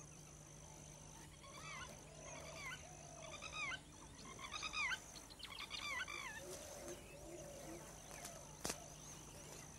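Birds calling in quick clusters of short, rising-and-falling honking calls, loudest about four to six seconds in, over a faint steady high whine. A single sharp click comes near the end.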